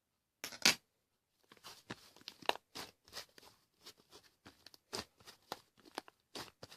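Slime being squished and stretched by hand, making irregular wet pops and crackles. A sharp pop comes about half a second in, and it is the loudest sound.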